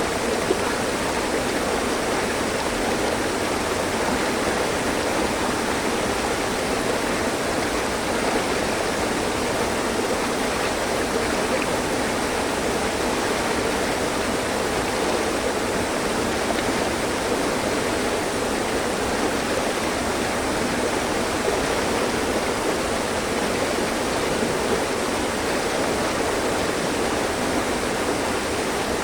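Mountain stream: water running steadily over rocks in a continuous, even rush.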